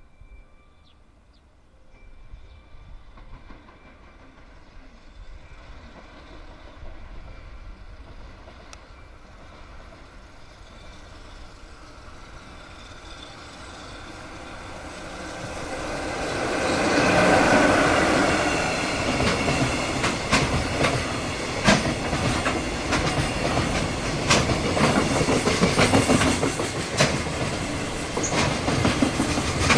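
A freight train hauled by an EF66 electric locomotive approaches and passes through at a fairly low speed. The rumble builds from about halfway in and becomes loud, then the wagons run past steadily with the clickety-clack of wheels over rail joints.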